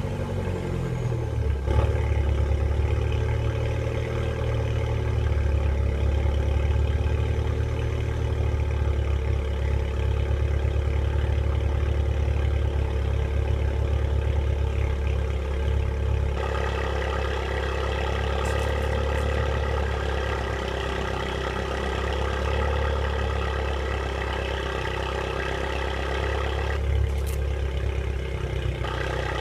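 A 2009 Mini Cooper S (R56) 1.6-litre turbocharged four-cylinder idling just after a cold start, through an exhaust with the resonator and secondary catalytic converter removed. The idle comes down over the first couple of seconds as the start-up flare settles, then holds steady.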